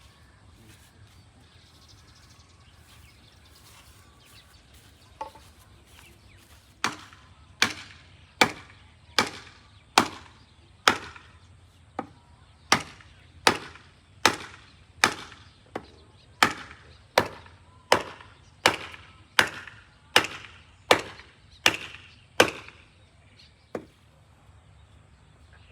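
Chopping with a blade: about twenty strong, evenly spaced strikes, a little more than one a second, each with a short ringing tail. A lone lighter stroke comes before the run and a weaker one just after it ends.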